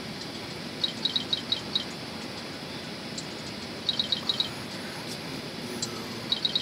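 A bird calling quick runs of five or six short, high chirps, three runs about two and a half seconds apart, over a steady background hiss.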